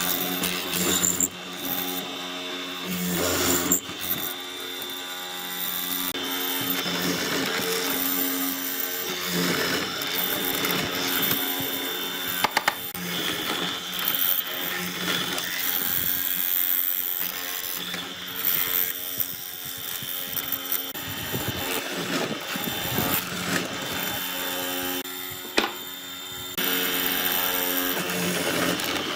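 An electric power tool running, its motor holding a steady pitch that swells and eases as it works. A few sharp clicks sound about twelve seconds in and again near the end.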